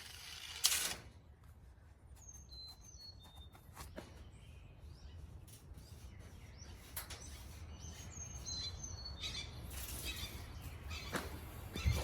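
Birds chirping in short, high calls, in two brief bouts. A sharp knock comes just under a second in, and a few lighter clicks follow.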